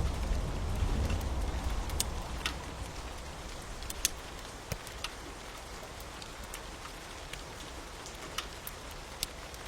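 Steady rain, with scattered sharp pops and crackles from a wood fire. The low rumble of thunder dies away over the first few seconds.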